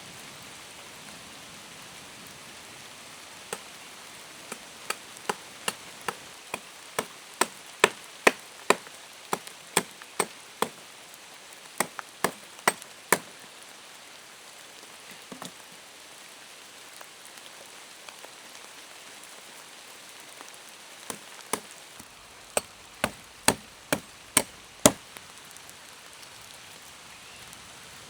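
Chopping strikes on wood, about two a second in two runs with a pause between, over the steady hiss of rain falling.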